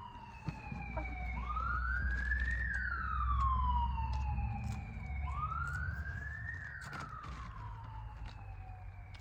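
An emergency-vehicle siren wailing, each cycle climbing quickly and then sliding slowly down, repeating about every four seconds. Under it a low rumble swells in the middle.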